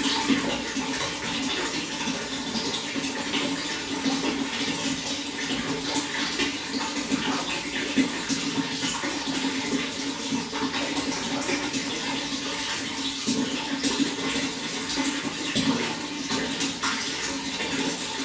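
Running water flowing steadily, with continuous splashing and trickling.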